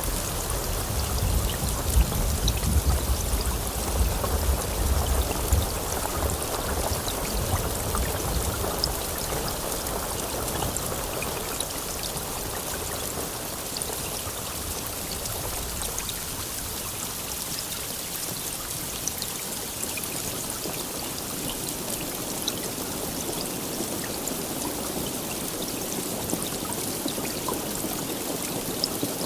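Steady heavy rainfall, with a low rumble of thunder through the first several seconds that dies away.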